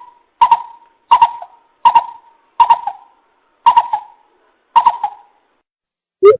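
Coucal calling: a series of about seven short, loud hooting notes, one every half second to a second, slowing slightly. It is a recorded bìm bịp decoy call of the kind played to lure wild coucals.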